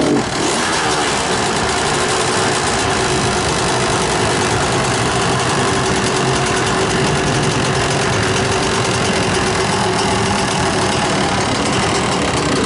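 Motocross motorcycle engine idling steadily, close by.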